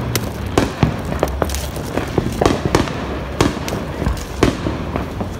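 Fireworks and firecrackers going off all around: sharp bangs and pops, several a second at irregular intervals, over a constant background of more distant blasts.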